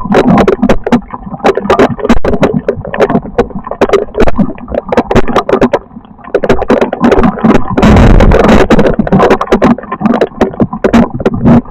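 Storm wind buffeting and overloading the microphone: a dense, irregular crackling rumble, with a heavier gust about eight seconds in.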